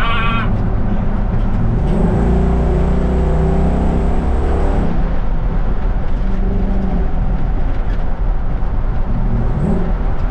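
Mustang 5.0-litre V8 in a 1960 Ford F100 pickup running under way. The engine note holds strong and steady for a few seconds about two seconds in.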